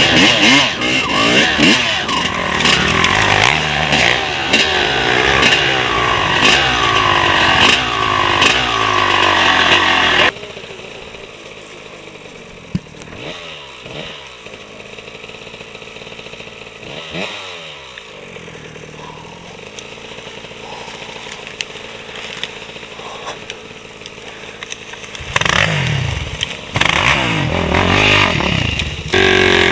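Motocross bike engines revving hard and changing pitch close by. About ten seconds in, the sound cuts abruptly to a quieter stretch of bikes revving and passing at a distance. Loud, close engine revving returns near the end.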